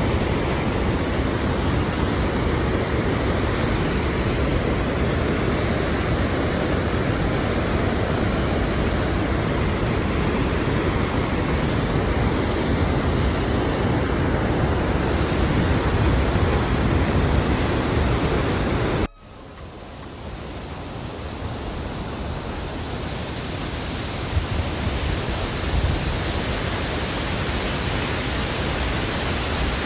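Roar of Augrabies Falls, a steady loud rush of falling water. About two-thirds of the way through it cuts off abruptly, then swells back to full within a few seconds.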